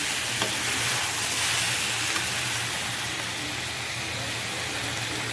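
Mushrooms and chopped vegetables sizzling steadily as they fry in a kadhai, with a couple of faint clicks.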